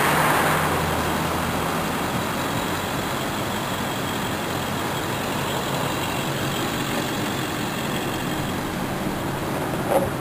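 Steady motor vehicle engine noise, a little louder in the first second, with one short knock near the end.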